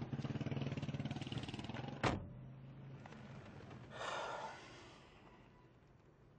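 Car engine running with a rapid low pulsing, cut off by a sharp knock about two seconds in. A brief rush of noise follows near four seconds in and fades away.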